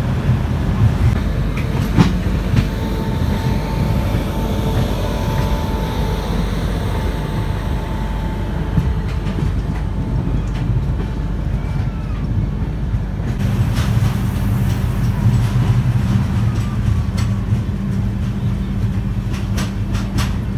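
Express passenger train running on the track: a steady low rumble with irregular clicks of the wheels over rail joints. A few seconds in, a faint thin squeal lasts for about five seconds.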